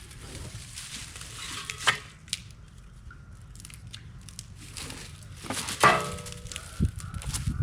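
Crunching and crackling of dry plant material, with two sharper cracks, one about two seconds in and one near six seconds, over a low steady rumble.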